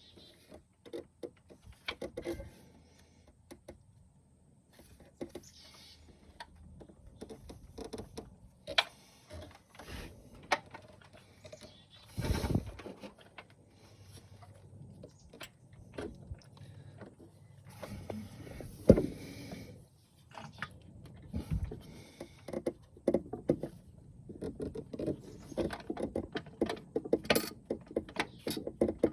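Hand tools and metal parts clinking, knocking and rattling in irregular bursts during work on a car's engine mount, with louder knocks about twelve and nineteen seconds in.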